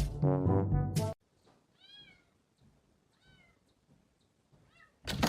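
Background music that cuts off about a second in, followed by a cat meowing faintly three times.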